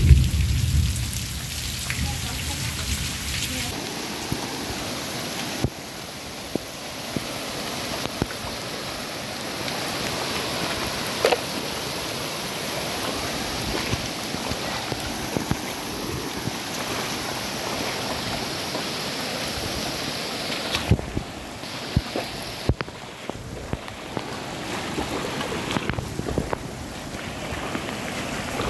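Heavy rain pouring steadily, mixed with muddy floodwater running over the ground. A low rumble of thunder dies away about a second in, and there are scattered sharp taps of drops. The sound changes abruptly several times where shots are cut together.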